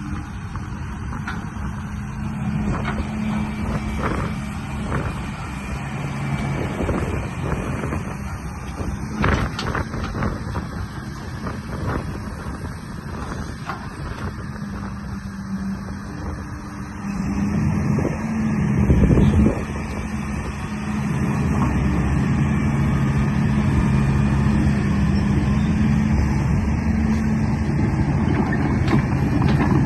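Radio-controlled construction-vehicle models working: a steady low motor drone with frequent clunks and knocks. It swells about 17 seconds in, then runs louder and steadier from about 21 seconds.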